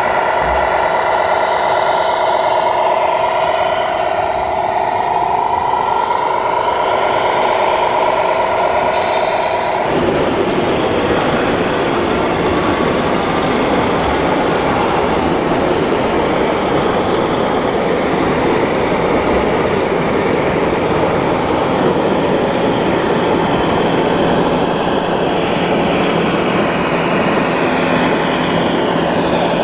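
1/14-scale RC construction machines working: a steady electric-motor and hydraulic-pump whine with several held tones, cut off abruptly about ten seconds in and replaced by a dense metallic rattling.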